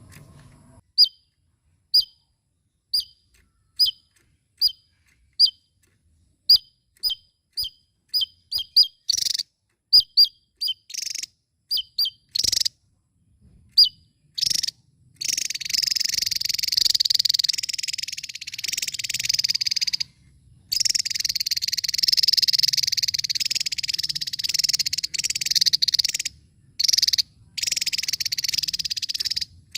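Javan tesia singing. Single sharp, high notes come about one a second and then quicken, and from about halfway through they break into a long, rapid, jumbled twittering song. That song stops abruptly a few times for brief moments.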